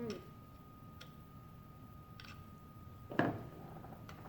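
A few light clicks and one small knock from small parts being handled and worked on a table, over a faint steady high whine.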